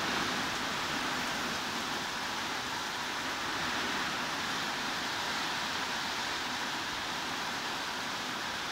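Heavy rain falling steadily, an even hiss with no single drops or other sounds standing out.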